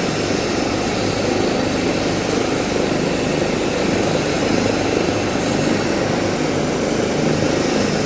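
Air ambulance helicopter running up on the ground before lift-off, its engine and rotor blades making a loud, steady din.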